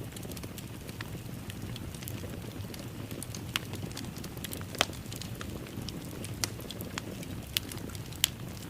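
Wood fire crackling in a fireplace: a steady low rush of flames with sharp pops and snaps at irregular moments, the loudest pops about five and eight seconds in.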